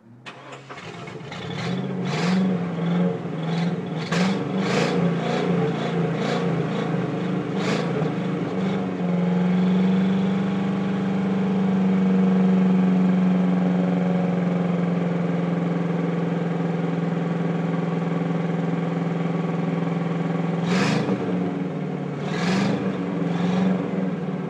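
A 1999 Chevy Silverado 1500's 4.8 V8 starting and running while being treated with Seafoam cleaner. It runs unevenly with sharp spikes for the first several seconds, settles to a steady higher speed, then spikes a few more times near the end.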